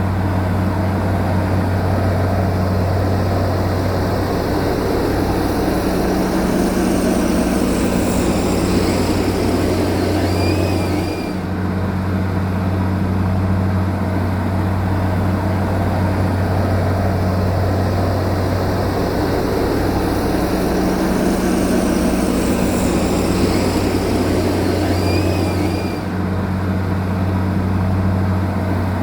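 Bulldozer's heavy diesel engine running steadily under load, a continuous low drone that dips briefly twice.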